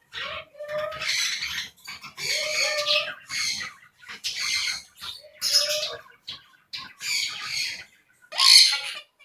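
A bird giving a series of harsh, screeching squawks, roughly one a second.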